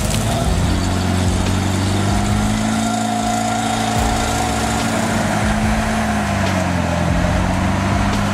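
Volga car engine of a custom off-road vehicle running steadily under load, its note rising slightly about two seconds in and dipping briefly near the end.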